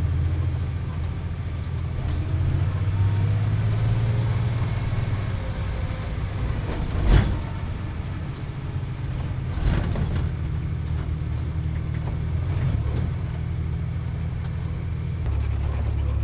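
Steady low rumble of a motor vehicle driving, with a sharp knock about seven seconds in and a smaller one near ten seconds.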